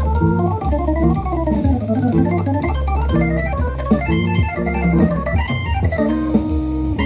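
Music played back through a portable Bluetooth speaker for a sound test: a fast stepping melody over strong bass and drums.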